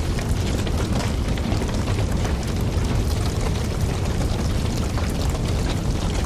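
Campfire burning: a steady low rumble of flames with many small crackles and pops from the burning wood.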